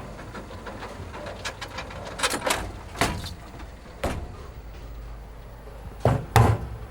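A series of sharp knocks and clatters over a steady low hum, with two loud knocks close together near the end.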